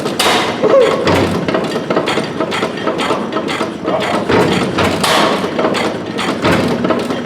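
Antique stationary gas engine running, with a fast, uneven series of knocks and thuds.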